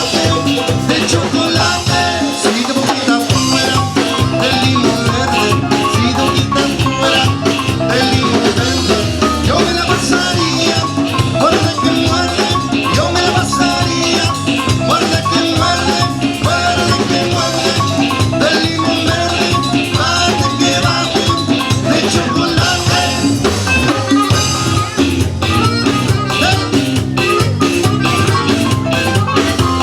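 Tejano band playing live: Latin dance music with drum kit and percussion under a melodic lead, steady and loud throughout.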